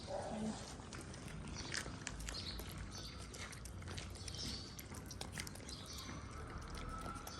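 Stray cats eating, with irregular wet chewing and crunching clicks.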